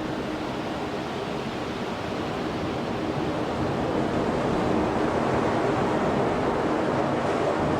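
Heavy rain falling: a dense, steady hiss that swells a little louder after the middle.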